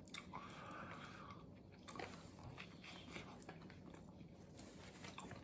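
Faint chewing of a mouthful of sub sandwich: soft, scattered mouth clicks and smacks.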